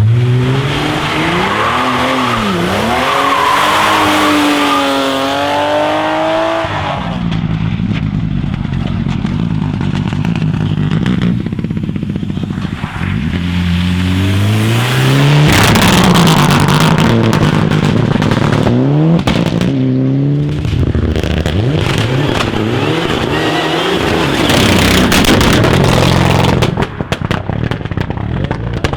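Rally cars at full effort on a stage: engines revving hard and dropping back through repeated gear changes, with tyre and gravel noise between the shifts.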